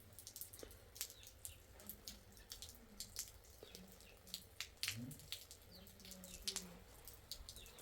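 Faint, irregular dripping and ticking of raindrops, a few sharp drips a second.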